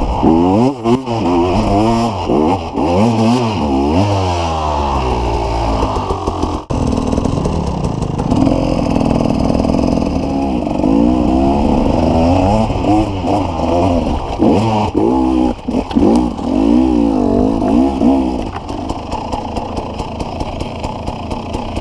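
Two-stroke KTM enduro motorcycle engine revving up and down in repeated quick surges as it is ridden hard, settling to a lower, steadier run near the end.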